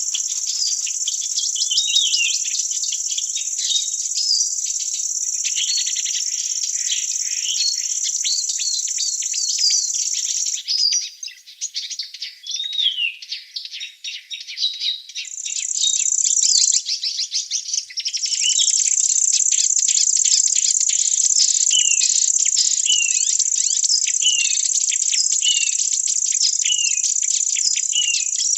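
Forest ambience: insects keep up a steady high-pitched drone that breaks off about a third of the way in and starts again a few seconds later. Birds call with short, downward-sliding notes throughout, repeated about once a second near the end.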